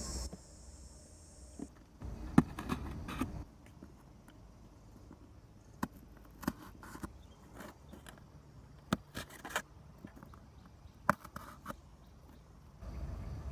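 Scattered light taps, clicks and scrapes of hands handling cardboard and a small pipe, with a short stretch of louder rustling about two seconds in.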